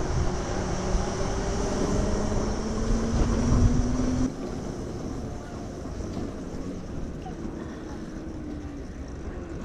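Wind rushing over the microphone of a moving electric moped, with the motor's whine rising slowly in pitch. About four seconds in, the whine cuts off and the overall sound drops, as when the throttle is let off, and a quieter rush of wind and road noise follows.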